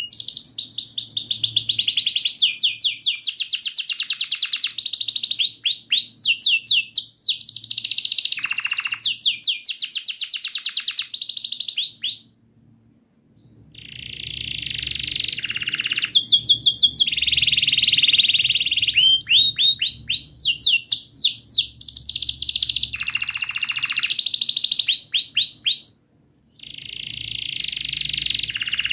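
Domestic canary in full song: a long run of rapid rolling trills and fast repeated 'cuit cuit' chirp notes, changing from phrase to phrase. The song breaks off twice into short silences, about twelve seconds in and again near the end.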